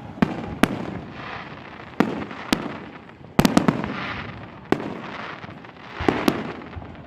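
Fireworks display: shells bursting in sharp bangs every second or so, with a quick cluster of several bangs about three and a half seconds in and a crackling hiss between the bursts.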